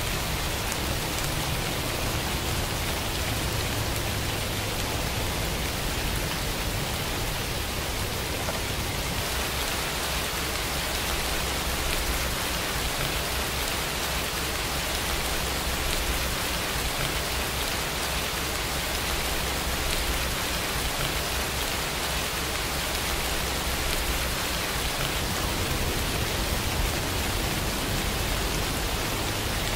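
Steady rain falling, an even hiss of drops with a low rumble underneath and no pauses or single loud events.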